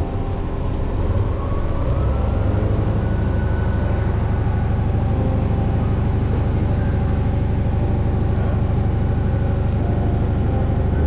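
Large truck's diesel engine running steadily with a deep, low rumble.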